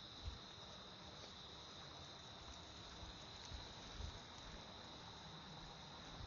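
Faint, steady high-pitched chirring of insects. Now and then there are soft low thumps of footsteps.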